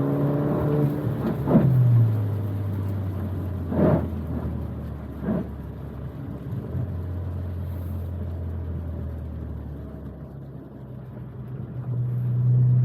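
Alfa Romeo Giulia running on a wet road. The engine note drops about two seconds in, holds low and steady, then rises again near the end, with steady road hiss and three brief swells of noise along the way.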